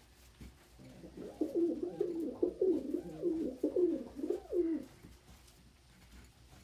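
Domestic pigeon cooing: a low, wavering coo running for nearly four seconds, starting about a second in.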